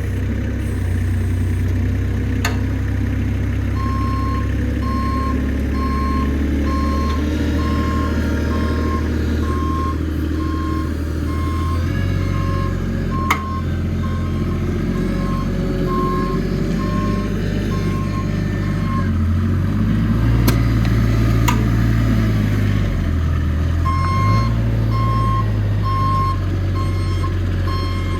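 Forklift engine running with its reversing alarm beeping at a steady single pitch, about once a second. The beeping stops for several seconds while the engine revs up and down, then starts again near the end. A few sharp knocks are heard.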